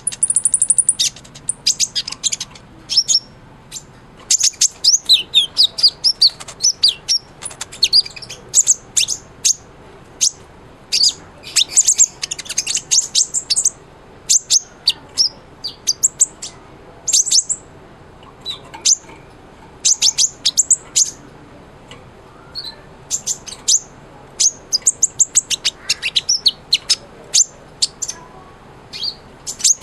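Kolibri ninja sunbird singing in full, vigorous song: rapid, high, thin chirps and twittering trills in repeated bursts with short pauses between.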